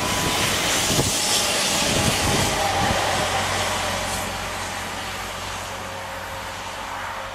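TER regional train passing close at reduced speed and drawing away, its rolling noise loud for the first few seconds with a few low thuds, then fading. Mistral wind blows on the microphone.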